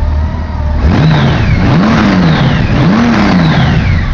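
Honda GL1800 Goldwing's flat-six engine idling, then revved three times about a second apart, each blip rising and falling back toward idle, starting about a second in.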